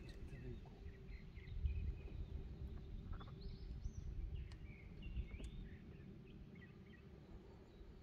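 Birds chirping on and off, thinning out near the end, over a low steady rumble and a faint steady hum.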